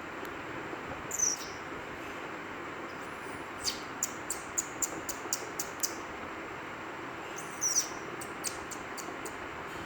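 A baby pet bird chirping: two sharp, high calls that drop in pitch, about a second in and again near the end, with runs of short clipped chirps at about three a second between them, over a steady background hiss.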